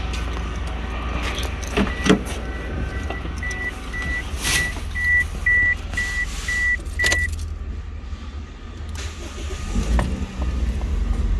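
Clicks and clunks of getting into a Toyota Vitz and turning the key, with the car's warning chime beeping about twice a second for roughly five seconds; about ten seconds in, the 2NZ-FE 1.3-litre four-cylinder engine starts up.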